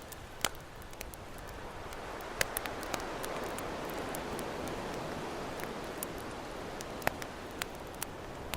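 Campfire crackling with sharp irregular pops over the steady wash of ocean waves, the surf swelling slightly through the middle.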